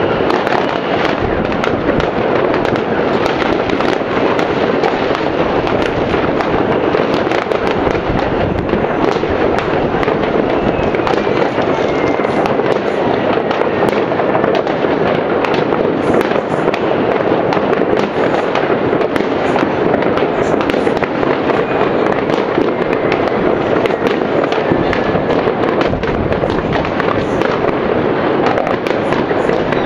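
A dense, continuous din of many fireworks and firecrackers going off all around, countless overlapping bangs and crackles with no break. A few faint whistles glide down in pitch through it.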